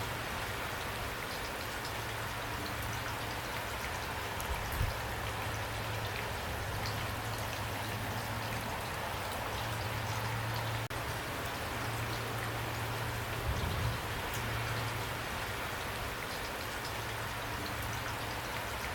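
Steady rain, with single drops ticking sharply against an even hiss and a low steady rumble underneath; a soft low thump comes twice, about five seconds in and near fourteen seconds.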